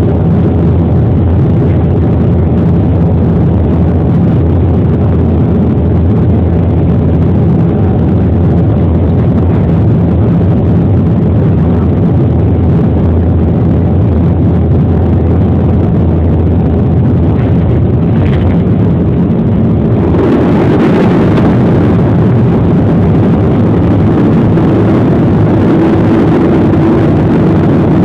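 Airliner engines heard inside the cabin during landing: a steady drone, then about twenty seconds in a sudden, much louder rush as the engines go into reverse thrust after touchdown.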